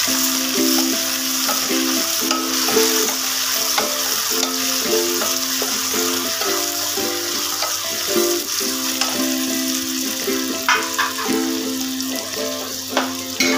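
Chopped onions and tomatoes sizzling in hot oil in a pot as they are stirred with a wooden spatula, with a few sharp clicks near the end. Background music with a repeating melody plays over it.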